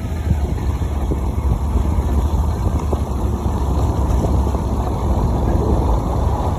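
1989 Dodge Dakota pickup driving, heard from inside the cab: a steady low road-and-engine rumble with light rattles throughout.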